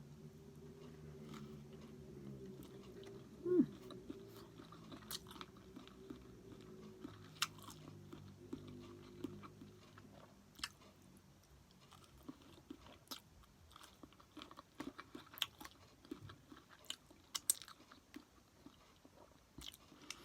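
A person chewing sushi close to the microphone: soft wet mouth clicks and smacks scattered throughout, with one louder short sound about three and a half seconds in. A faint low hum underlies the first half.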